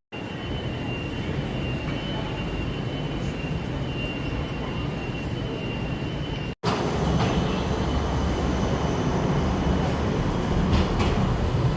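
Rail vehicle in motion: a steady rumble of running noise with a faint, steady high whine through the first few seconds. A hard cut about halfway through leads into a louder, deeper rumble.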